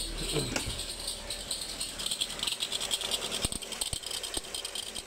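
Proton Saga's Campro engine just after a start, its pitch falling away in the first second, then running with a fast rattle and scattered sharp clicks. The rattle is the Saga's common intake manifold fault: the manifold's short/long runner flap has gone loose.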